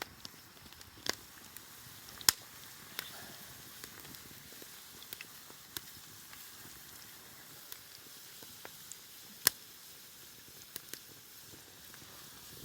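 Wood campfire crackling: a faint steady hiss broken by a few sharp, scattered pops. The loudest pops come about two seconds in and again about nine and a half seconds in.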